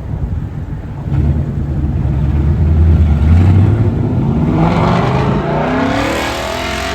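Car engine running loud and deep, then revving up from about four and a half seconds in, its pitch climbing steadily.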